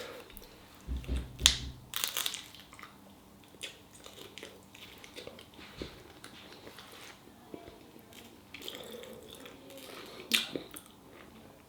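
Close-up eating sounds: a person biting and chewing a filled chapatti wrap, with scattered small crunches and mouth clicks and a few soft thumps about a second in.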